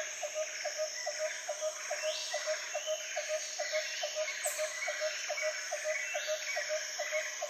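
An added background soundtrack cuts in suddenly from silence: a steady high insect-like trill, a regular croak-like pulse about three times a second, and scattered bird-like chirps, in the manner of a nature-sounds music track.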